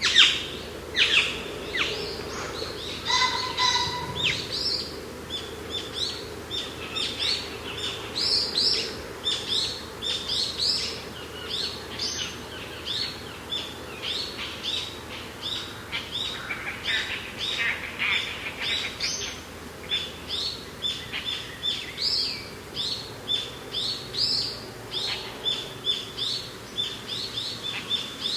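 Several songbirds chirping and calling in a dense, continuous chorus of short, high notes, several a second, over a faint steady background noise.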